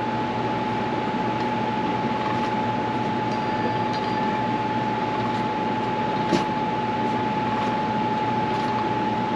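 Steady mechanical whir with a constant high whine, typical of a shop fan or air-conditioning unit running, with a faint click about six seconds in.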